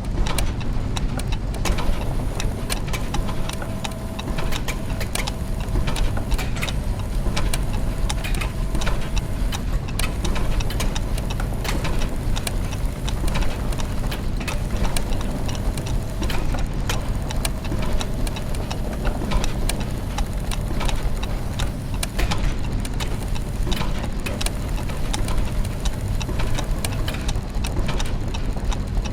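Layered clockwork and gear mechanisms running: many clicks and ticks over a steady low mechanical hum, with a faint held tone that comes and goes.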